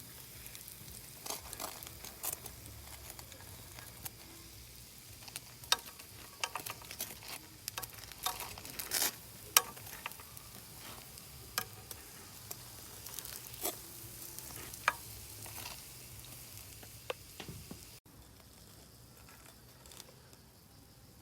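Food frying at high heat, sizzling steadily with irregular sharp pops and spatters; it drops to a quieter hiss near the end.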